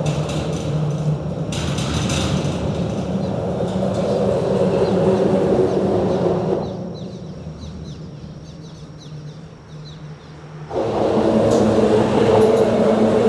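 A steady mechanical rumble with a low hum. About six and a half seconds in it fades to a quieter stretch with faint bird chirps, then comes back abruptly near eleven seconds.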